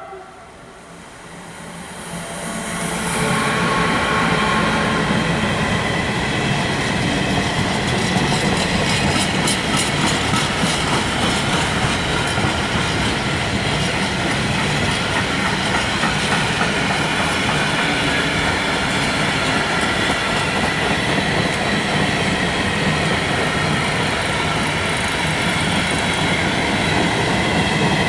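Freight train of flat wagons hauled by an electric locomotive passing close by, the sound building over the first few seconds into a steady rolling clatter of wagon wheels over the rail joints.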